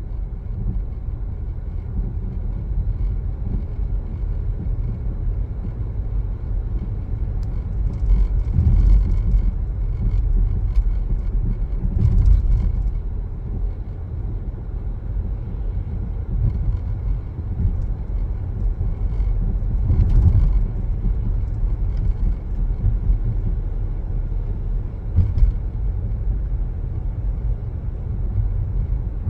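A car driving on a road: a steady low tyre and engine rumble that swells a few times.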